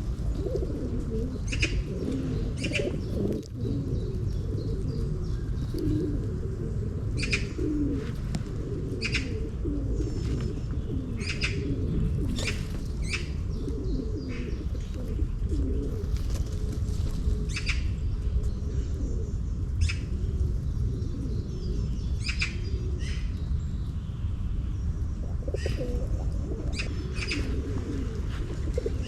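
Feral pigeons cooing, with short high chirps from small birds repeating every second or two, over a steady low rumble.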